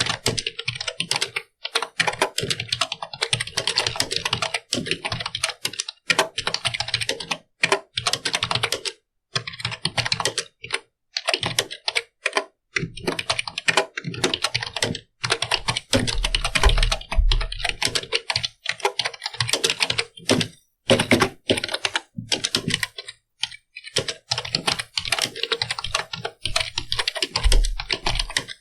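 Computer keyboard being typed on steadily, fast runs of key clicks broken by brief pauses.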